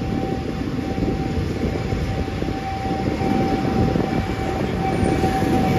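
Passenger train running: a steady low rumble with a faint, steady high whine over it.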